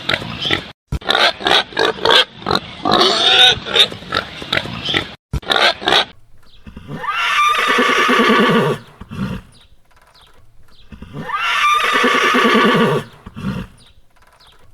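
Pigs grunting and squealing in quick short calls, then, after a brief break, a horse neighing twice, each whinny a long call about two seconds long.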